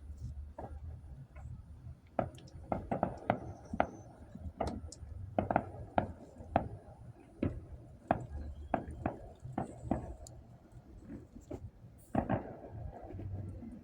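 Fireworks popping and cracking irregularly, a dozen or more sharp bangs at varying strength over a low rumble.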